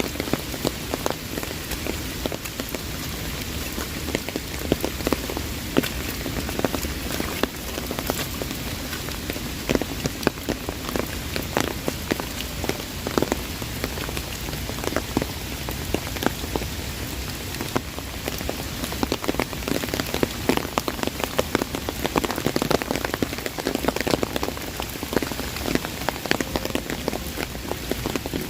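Heavy rain drumming on an umbrella: a constant hiss with a thick patter of sharp drop strikes.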